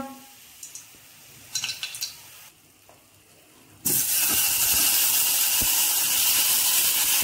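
Spice-coated paneer cubes hitting hot oil in a non-stick kadai: after a few faint clicks, a loud frying sizzle starts suddenly about four seconds in and holds steady.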